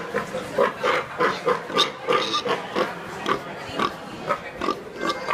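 Pig grunting over and over in short, quick grunts, about three or four a second.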